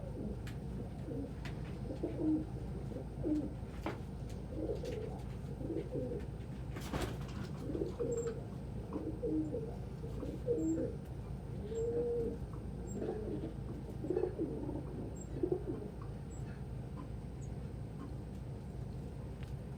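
Domestic pigeons cooing: a run of short, low, warbling calls with brief pauses between them, fading out a few seconds before the end, over a steady low hum. A single sharp click about seven seconds in.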